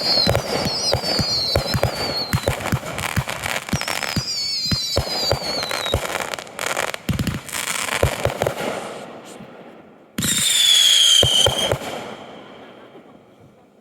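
Consumer fireworks going off in rapid succession: a dense run of sharp pops and bangs with warbling whistles that glide down in pitch. About ten seconds in, a loud shrill whistle lasts about a second and a half, then the noise dies away.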